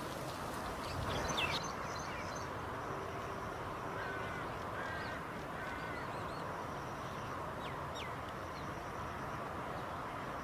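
Birds calling in short chirps and call notes over a steady background hiss, with the loudest cluster of calls about a second in.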